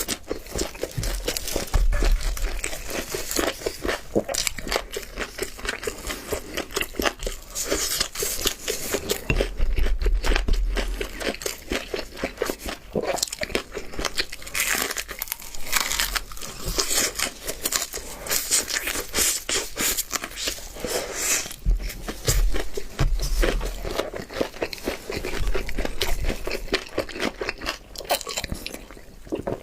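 Crispy double-fried chicken crunching and crackling as it is bitten into and chewed close to the microphone, a dense run of crisp crackles with occasional low thuds.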